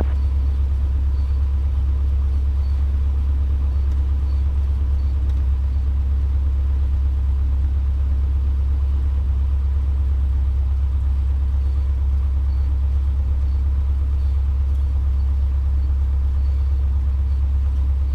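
Cessna 150's Continental O-200 four-cylinder engine running steadily at low taxi power, a constant low drone heard from inside the cockpit.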